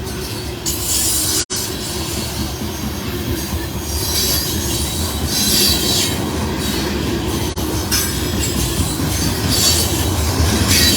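Loaded coal hopper cars rolling past, with a steady rumble of wheels on rail and high wheel squeal coming and going as the train rounds a curve.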